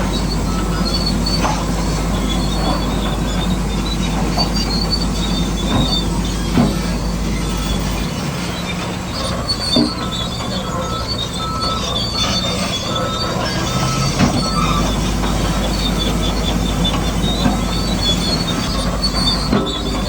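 Radio-controlled model construction machines working: small electric motors and gearboxes running with a steady high whine, with scattered clicks and knocks from the machines and the rock they move.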